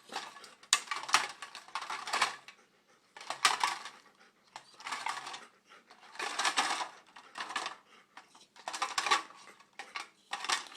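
A macaw rummaging in a box of plastic credit cards, clicking and clattering them with its beak in bursts of a second or so, with short pauses between.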